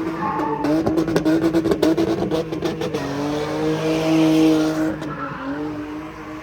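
Car engine held at high revs, crackling with a rapid string of exhaust pops for a couple of seconds, then holding a steady high-rev drone.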